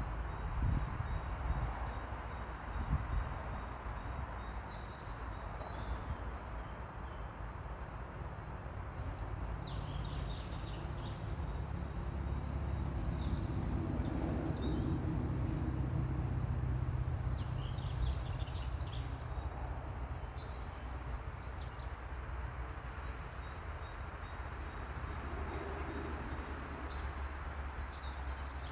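Songbirds calling and singing in a spring chorus, short chirps and trills scattered throughout, over a low steady rumble that swells about halfway through.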